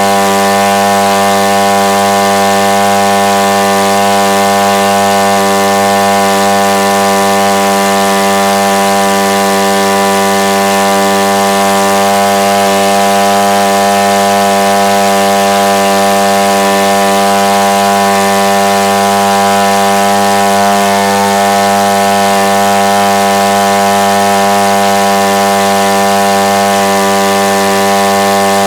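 Two-stroke Husqvarna chainsaw engine, converted to electronic ignition, running steadily while it turns a 22 x 13 propeller. The pitch holds constant, with no revving up or down.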